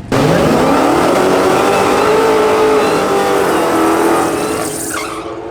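Drag race car engine at full throttle, accelerating hard down the strip. Its pitch climbs sharply over the first second, holds high, then drops away near the end.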